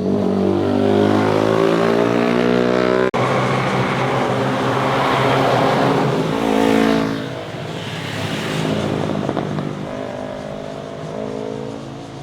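Motorcycles accelerating through a bend and passing by, engine pitch climbing as they rev through the gears. An abrupt break about three seconds in starts another pass, with the engine note dropping as a bike goes by about seven seconds in and a new rising engine note near the end.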